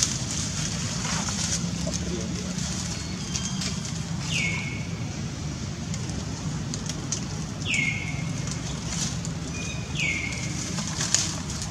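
A bird calling three times, each a short whistled note that drops steeply and then levels off, with a few fainter notes between, over a steady low hum.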